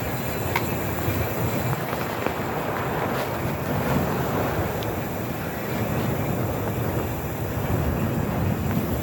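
Steady rumbling wind and tyre noise from riding a bicycle, with a few faint clicks.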